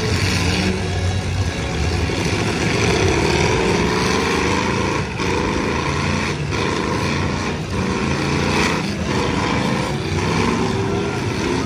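Demolition derby car engines running and revving out on the dirt arena, several at once, their pitch rising and falling as the cars push and manoeuvre.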